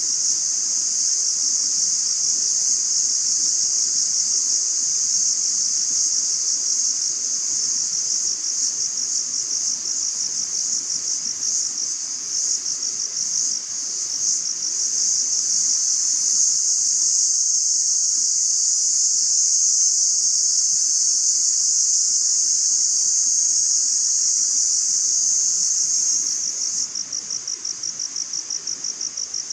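A dense, steady, high-pitched insect chorus, like crickets chirring. Near the end it changes abruptly to a rapid, evenly pulsing trill.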